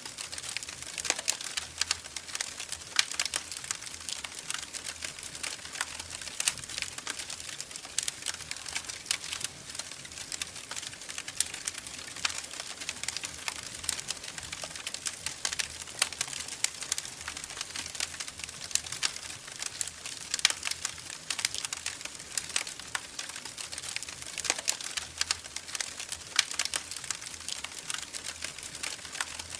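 Wood fire crackling steadily, with many irregular sharp pops and snaps over a soft hiss.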